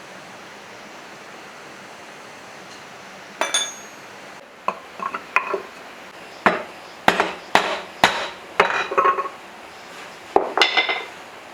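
Metal engine parts and tools clinking and knocking during an engine teardown. A ringing metallic clink comes about three seconds in, then a run of sharp knocks and clinks over the next several seconds.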